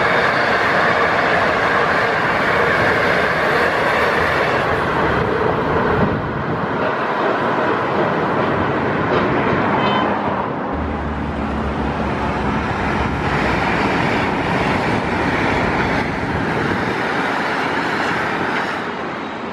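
Passenger train of green coaches passing at speed: steady rolling noise of wheels on the rails, easing a little about six seconds in and again near the end.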